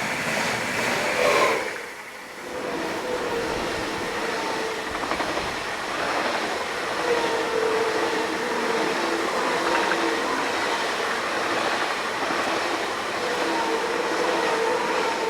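Steady running noise of a moving vehicle, with a few held tones that fade in and out. The level dips briefly about two seconds in.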